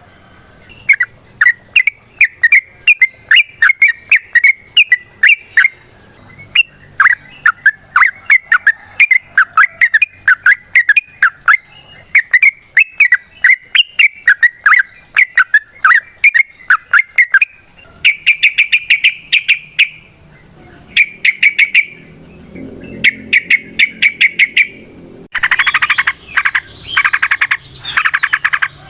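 Yellow-vented bulbul (trucukan) singing a long, fast run of short bubbly notes, then breaking into clusters of buzzy trills after about 18 seconds. A denser rasping chatter, like croaking, takes over near the end.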